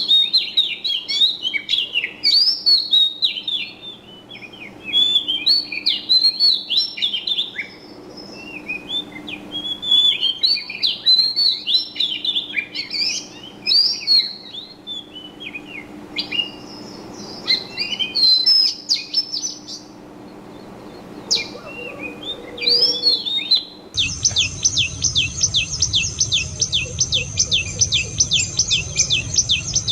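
Small songbirds chirping and twittering in quick, varied phrases. About three-quarters of the way through it cuts abruptly to a fast, evenly repeated high chirping over a low hum.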